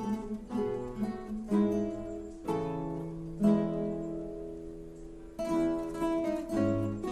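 Instrumental music on a plucked string instrument, most like an acoustic guitar: chords struck about once a second, each ringing out and fading, with one chord left to ring for about two seconds just past the middle.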